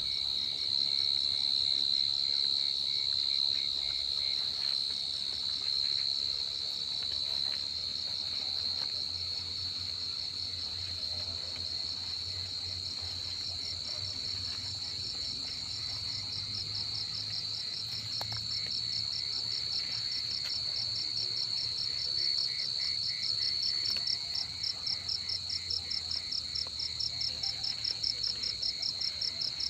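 Cricket singing close by: a loud, steady high-pitched trill that breaks into a pulsing chirp, roughly twice a second, over the last few seconds.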